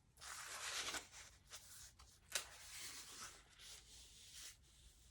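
Faint rustling and rubbing of paper journal pages made from glued magazine pages as they are handled and turned, with one short tap about two and a half seconds in.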